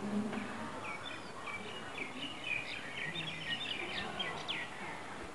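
A bird chirping, a quick run of short notes through the middle, over steady open-air background noise.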